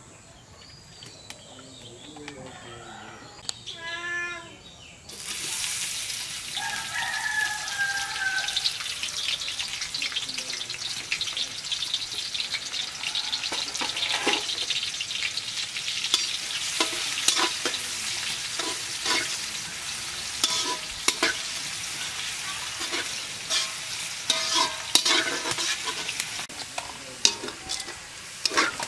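Food starts sizzling in hot oil about five seconds in, with a sudden jump in level, and then fries with a steady sizzle. From midway on there are frequent scrapes and knocks of a spoon stirring in the pan.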